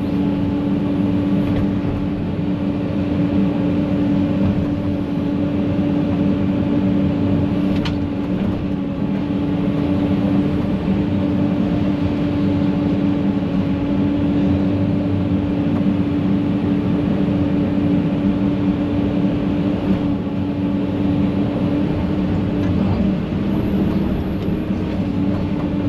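Heavy-equipment diesel engine running steadily under load with a constant hum and no change in pitch.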